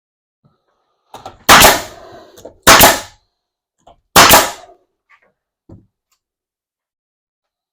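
Nail gun firing three sharp shots about a second apart, with light clicks of handling between and after them, while it is tested because it had not been driving any nails.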